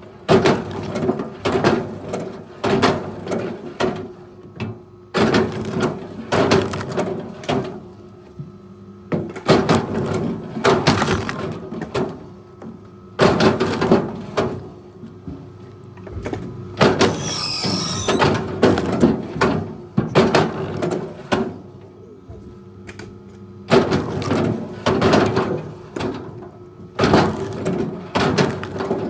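Repeated heavy knocks and thuds, coming in clusters of a second or two with short gaps, over a faint steady machine hum.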